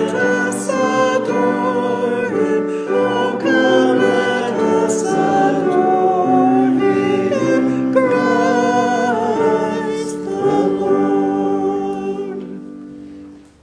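Church choir singing in sustained, held chords, the last chord fading away near the end.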